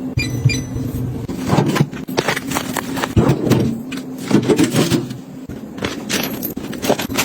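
Snacks and packaging being handled: plastic crinkling and light clicks and knocks as items are moved and set down, over a faint steady hum.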